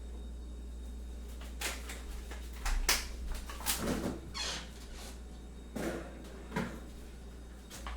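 Kitchen handling sounds: a string of sharp knocks and clinks, like crockery, utensils and cupboard doors being moved about, over a steady low hum.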